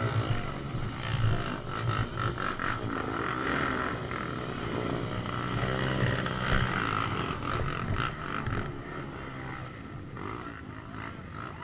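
Off-road vehicle engine running, its revs rising and falling as it works along a dirt trail.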